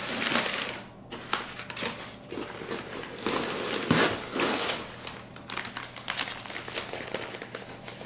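Shredded newspaper packing rustling and crinkling in irregular bursts as a wrapped orchid is pulled out of a shipping box, loudest about a third of a second in and again around four seconds in.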